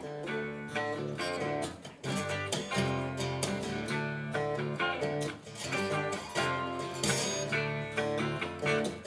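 Acoustic guitar strumming chords in an instrumental break of a live folk song, with no singing.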